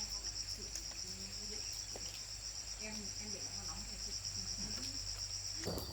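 Insects trilling: a steady, fast pulsing high buzz of about ten pulses a second, with faint voices murmuring underneath. The sound changes abruptly near the end.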